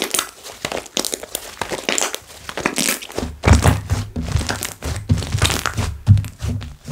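Hands squishing and poking slime, with many small crackles of air bubbles popping. From about three seconds in, repeated soft, low thuds join as the slime is pressed and slapped.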